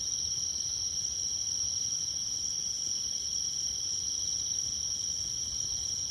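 Night insects, crickets among them, trilling in a steady unbroken chorus at several high pitches, over a faint low rumble.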